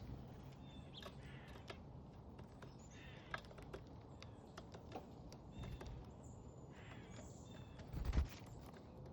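Backyard birds at a feeder: scattered short chirps and high calls, with light clicks and taps from birds moving on the feeder, and a louder low thump about eight seconds in.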